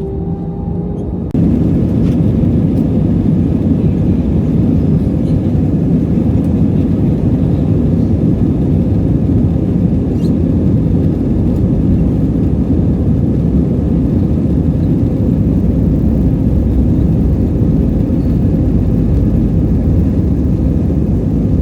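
Steady, loud cabin rumble of an Airbus A320-family airliner: engine and airflow noise heard from inside the cabin. In the first second a rising whine cuts off abruptly as the rumble takes over.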